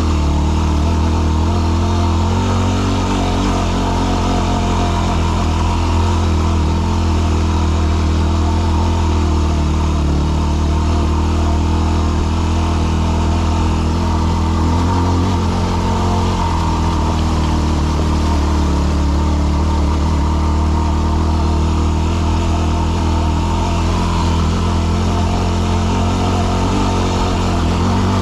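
Yamaha WR250R dual-sport motorcycle's single-cylinder four-stroke engine running steadily at low, fairly constant revs while climbing a rocky trail.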